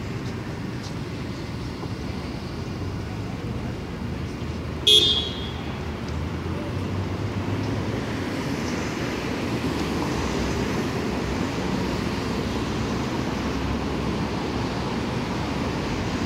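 Steady city street traffic noise, with one short, loud car horn toot about five seconds in.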